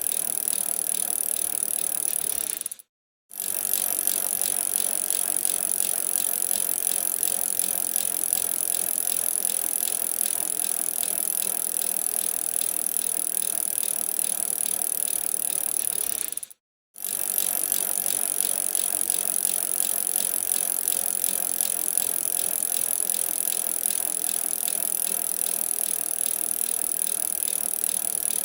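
Bicycle being ridden on snowy winter streets: a steady rattle of the bike and drivetrain over tyre and road noise. The sound drops out completely twice, briefly, about three seconds in and again about two-thirds of the way through.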